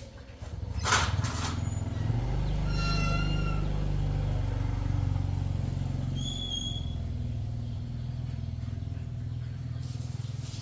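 Small motorcycle engine starts about half a second in and runs at idle, its pitch shifting a little as it settles.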